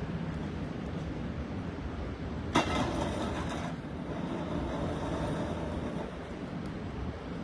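A steady low vehicle rumble with hiss, broken about two and a half seconds in by a sudden loud noisy burst that lasts about a second.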